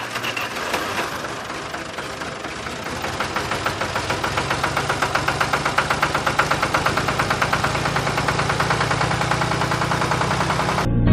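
Small electric motor of a homemade toy tractor running with a rapid, even clatter, growing louder over the first few seconds.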